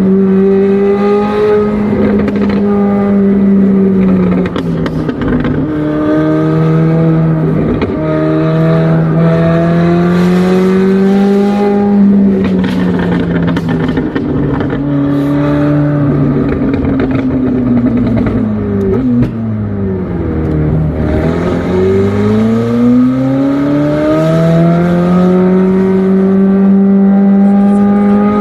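McLaren 765LT's twin-turbo V8 running under load through a run of corners. The revs climb and step down at gear changes, sink low about two-thirds of the way in, then climb steadily again.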